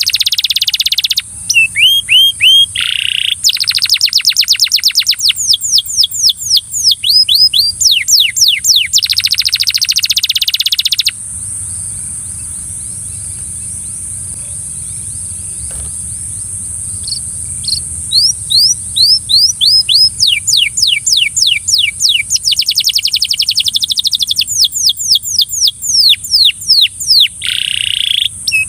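Belgian canary singing: loud phrases of fast trills made of repeated sweeping notes, which break off for several seconds around the middle and then start again.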